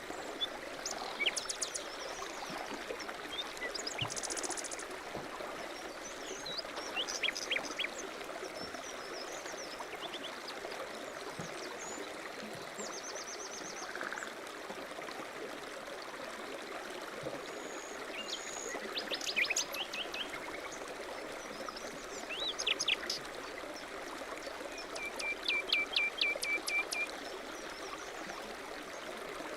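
A stream running steadily, with songbirds chirping and giving quick trills over it every few seconds.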